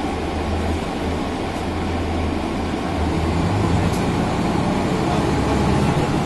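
Mercedes-Benz O405N city bus on the move, its rear engine running under a steady air-conditioning hum and road noise. About halfway through, the low engine note changes and the sound gets slightly louder.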